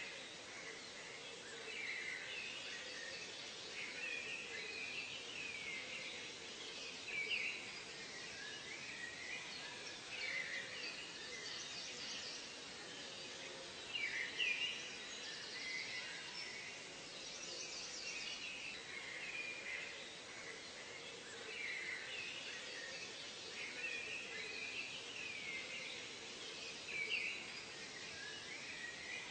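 Nature ambience: several birds calling in short chirps and warbling phrases, scattered irregularly over a steady background hiss.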